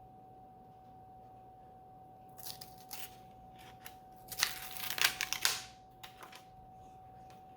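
Paper rustling and light clicks of a hardcover book being handled. The loudest rustle comes about four and a half to five and a half seconds in.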